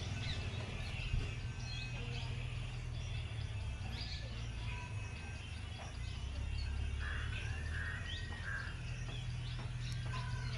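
Birds chirping and calling over a steady low hum, with one longer arching call about seven seconds in.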